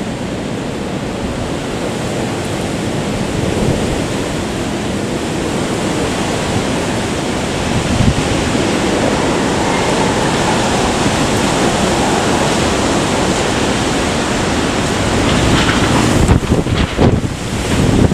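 Typhoon-force wind blowing hard and steadily, with heavy wind noise on the microphone. The gusts get choppier and more uneven near the end.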